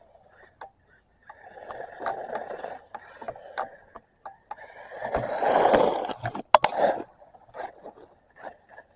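RC car driving over rough ground: its wheels roll and scrape in irregular spurts, with clicks and knocks, the loudest spurt about five to six seconds in.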